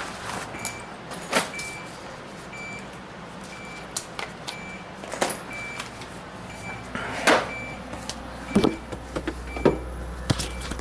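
A short, high electronic beep repeats about once a second over knocks and clicks of hands working inside a refrigerator. A low hum comes up near the end as the fridge's evaporator fan is powered for testing.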